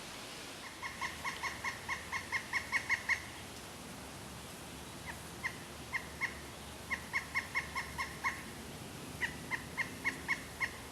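Pileated woodpecker calling: a rapid series of loud, ringing notes, about five a second, growing louder, then a few single notes and two more shorter runs of the same call.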